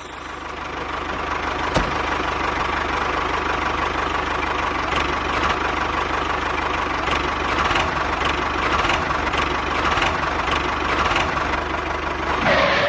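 A motor running steadily with a high steady whine, and a single sharp click just under two seconds in.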